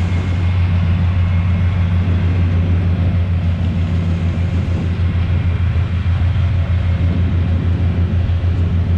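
Engine running steadily: a loud, even low drone with a fine rapid pulse and no change in speed.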